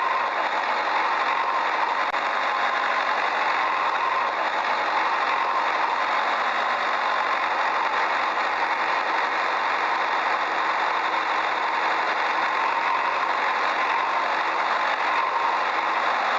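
A small motor running steadily for the whole stretch: an even, unchanging whir with a steady tone in it and almost no low rumble.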